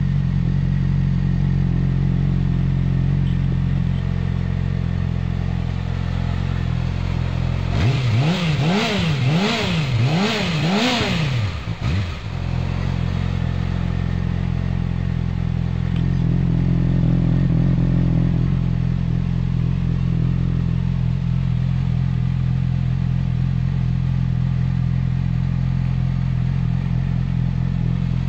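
Yamaha YZF-R6 inline-four engine idling steadily through its exhaust, then blipped four times in quick succession about eight seconds in before dropping back to idle.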